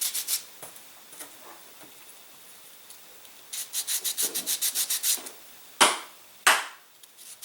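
Quick back-and-forth hand sanding of small aileron control horns: a short run of strokes at the start, then a longer run in the middle at about seven strokes a second, followed by two short, louder sounds near the end.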